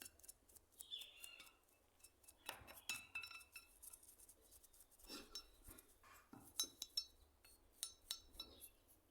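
Light metallic clinks and taps at irregular intervals, some with a brief high ring, as small metal parts of a hand plane and tools are handled and set down.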